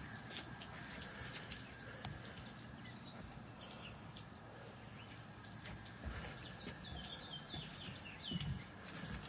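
Quiet outdoor background with faint bird chirps, a quick run of short calls in the second half, and a few soft low thumps.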